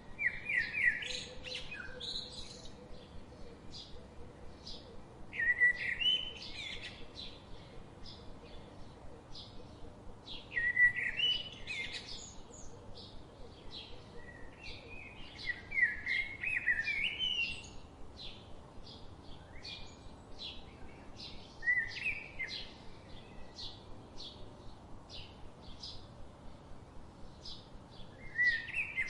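Birds singing: a short warbled song phrase about every five seconds, with many quick, thin chirps in between.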